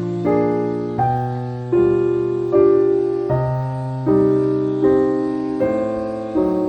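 Piano music: a sequence of chords, a new one struck about every three-quarters of a second, each fading before the next.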